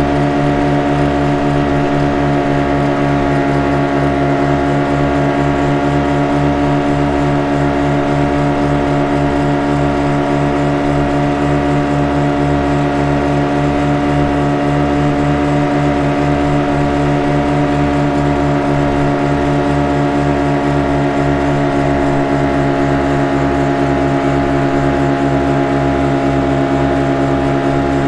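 Motorboat engine running at a steady speed, a constant drone over a low, rapid throb.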